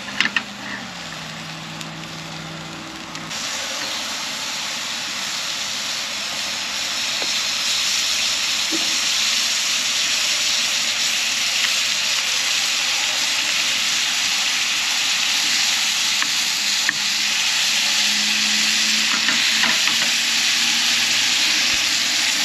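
Food sizzling in a frying pan, a steady hissing fry that grows louder about 3 seconds in and again a few seconds later.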